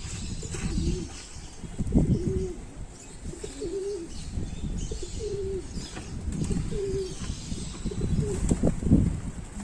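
Pigeons cooing, short low coos repeating about every one and a half seconds, with bursts of wing flapping and a few sharp knocks, the loudest near the end.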